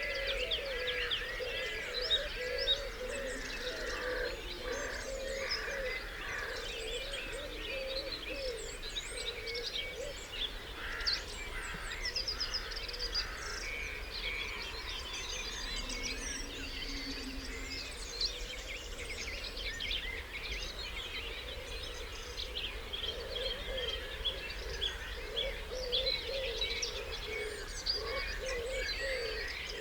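Dawn chorus of many songbirds singing over one another: dense overlapping chirps, trills and whistles. Under them, a lower call repeats over and over.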